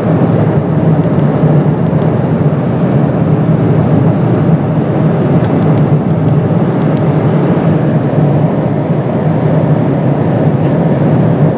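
Steady cabin noise of a Boeing 777-200ER airliner in cruise: an even rush of air and engine noise with a constant low hum.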